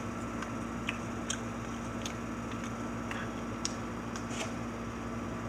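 A steady low electrical hum in a small room, with about seven faint, scattered clicks and light taps.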